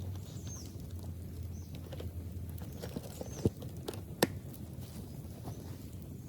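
Bonfire of chopped old bamboo crackling steadily, with two loud sharp pops less than a second apart about halfway through.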